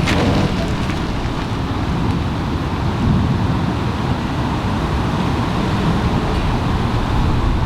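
Wind buffeting the microphone as a steady, rumbling rush, with a brief crackle at the start.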